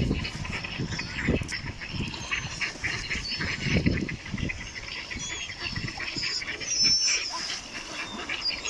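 A group of ducks quacking and chattering in quick, overlapping calls, with a few short high chirps and some low thumps mixed in.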